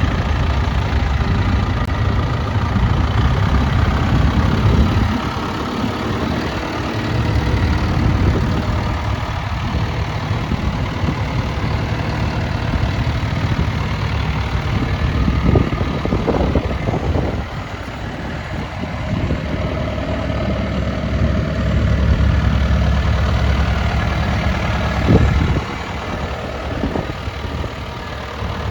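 2014 John Deere 6115M tractor's diesel engine idling steadily, its level falling and rising a few times, with a few sharp knocks in the middle and near the end.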